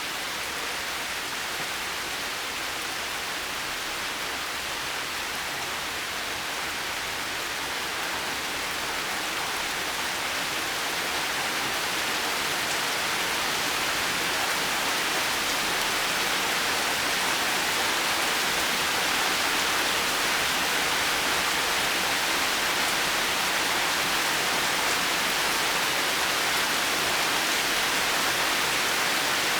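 Heavy rain falling steadily, an even hiss that grows a little louder over the first half.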